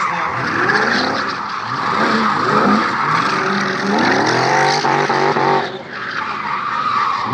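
V8 engine of a BMW E30 revving hard through a drift, the revs climbing and falling again and again, with tyres squealing over it; both drop off briefly about six seconds in.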